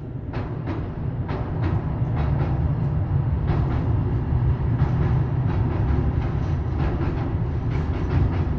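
Train passing on the line: a steady low rumble with the wheels clacking over rail joints, often in quick pairs, growing louder over the first second.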